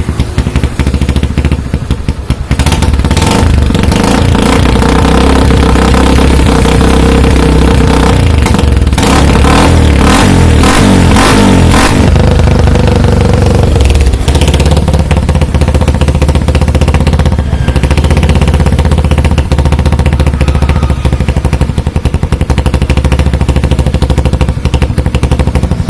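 Yamaha Scorpio motorcycle's single-cylinder four-stroke engine running through a hollowed-out (gutted) exhaust muffler. It is revved several times in quick succession from a few seconds in, then settles back to a steady, loud idle for the second half.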